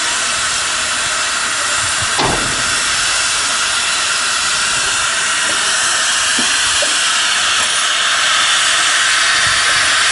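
Steam locomotive hissing steadily with escaping steam, with a single knock about two seconds in.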